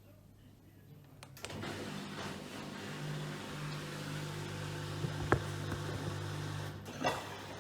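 Miele PW6065 Plus washing machine starting its cycle: a steady motor hum sets in about a second and a half in, with a sharp click near the middle. The hum cuts out shortly before the end, followed by another click.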